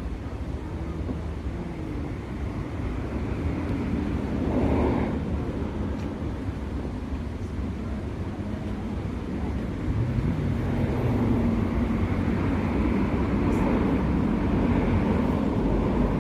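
Motor vehicle running: a steady low engine hum with road noise, swelling briefly about five seconds in and growing louder in the second half.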